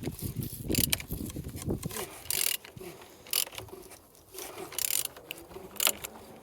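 Removed L4V39 engine being turned over by hand: mechanical clicking and rotating noises come in uneven bursts. The engine turns freely and is not seized.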